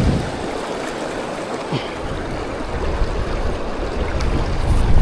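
Fast river water rushing over rapids in a steady roar, with wind buffeting the microphone at the start and again in the last second or so.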